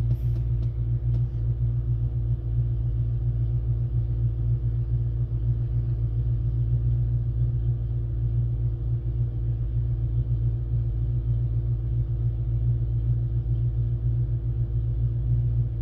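Ford Mustang engine running steadily, a constant low rumble with no change in speed.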